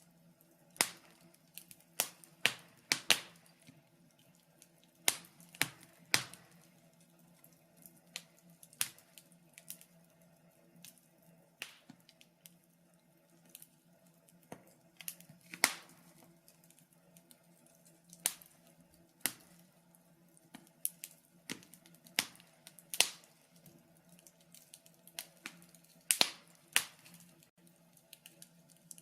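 Wood fire crackling in a fireplace: irregular sharp pops and snaps, some much louder than others, over a faint steady background.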